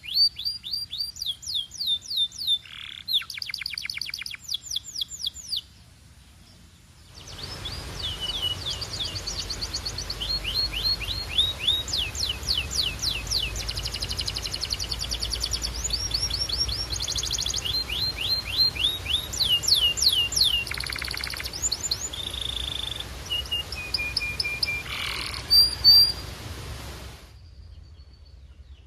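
A canary singing: fast trills of rapidly repeated downward-sliding notes, the trill changing speed and pitch from phrase to phrase, with a few steady whistled notes near the end. There is a brief pause about six seconds in, after which the song continues over a steady background hiss.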